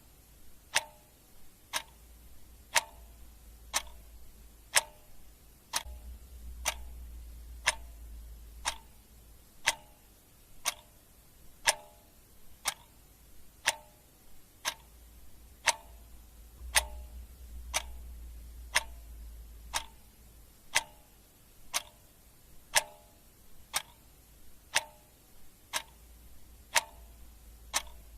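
Clock ticking steadily about once a second, the strokes alternating in tone as a tick-tock. A faint low rumble swells up underneath twice.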